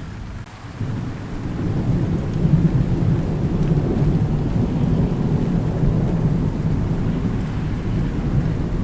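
Thunder rumbling low over steady rain, swelling about a second in and holding.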